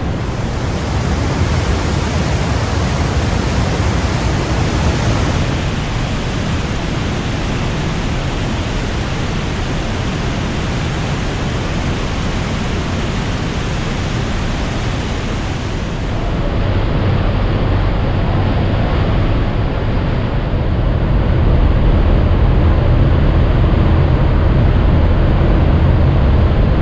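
Glacier waterfalls thundering inside a mountain, a loud, steady rush of water. It gets deeper and louder a little past halfway and again near the end.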